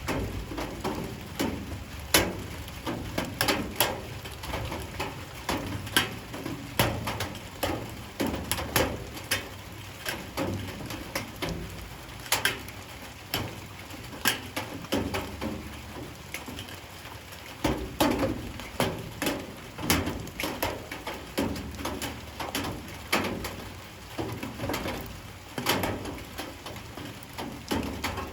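Light rain falling, with irregular sharp drips striking a hard surface over a steady patter.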